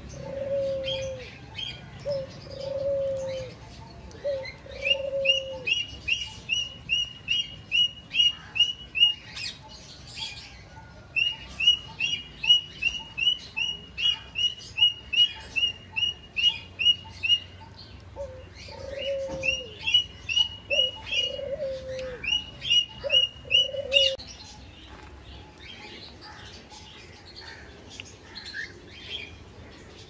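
Birds calling: long runs of short, evenly repeated high chirps, about three a second, with a lower cooing call near the start and again alongside the later chirps. All of it stops shortly after two-thirds of the way through. Scattered short clicks run underneath.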